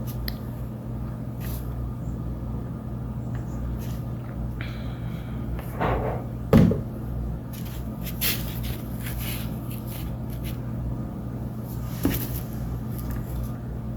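Scattered light knocks, taps and rustles from craft materials being handled on a table (glue bottle, sticks, paper plate), the loudest about six seconds in, over a steady low electrical hum.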